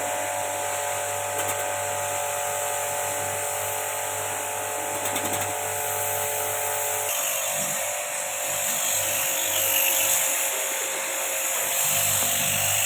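A small electric motor running steadily with a continuous hum and hiss; its sound changes about seven seconds in.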